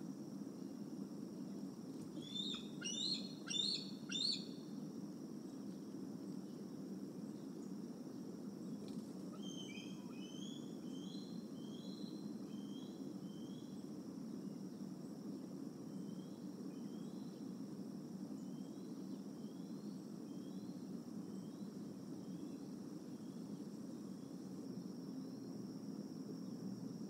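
Outdoor birdsong: a quick cluster of three loud, sharp bird calls a couple of seconds in, then a songbird's series of quick downward-slurred notes that grow fainter and sparser. A steady high whine and a low rumble run underneath.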